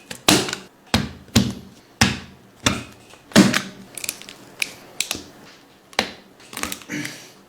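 A Jordan 4 sneaker being taken apart by hand: a string of short, sharp snaps and tearing sounds, irregular, about one to two a second.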